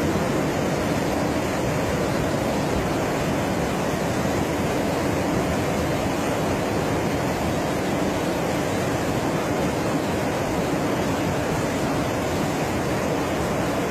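Steady, unbroken rushing noise of a violent storm, with no let-up or distinct impacts.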